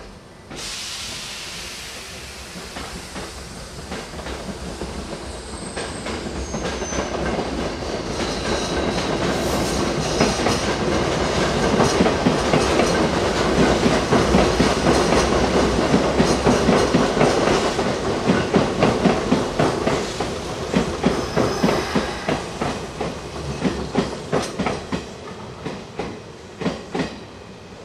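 Electric train running past on the rails: a sudden rush of noise about half a second in, building to a loud peak mid-way, with wheels clattering over rail joints. Near the end the clacks come as separate, evenly spaced beats.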